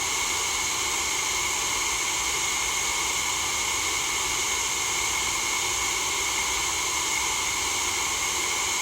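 Steady, unchanging white-noise hiss, strongest in the high range, of the kind played for sleep.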